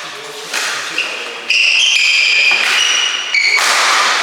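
Badminton play on court: sudden strikes and high squeaks, the squeaks most likely from shoes on the court floor, several times with a long squeak about two seconds in.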